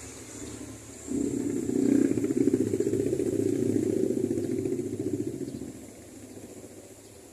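A small engine running close by, with a fast, even firing pulse. It starts suddenly about a second in and fades out near the six-second mark.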